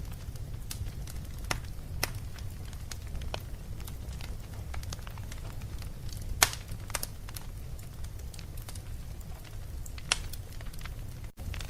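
Wood fire in a fireplace crackling, with sharp pops scattered over a low steady rumble; the loudest pops come about six and ten seconds in. The sound drops out for an instant near the end.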